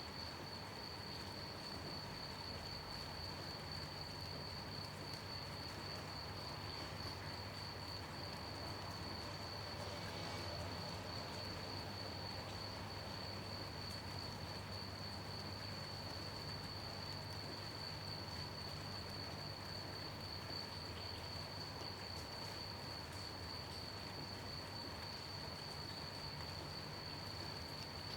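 Crickets chirping in a continuous, steady high-pitched trill, over an even hiss of rain.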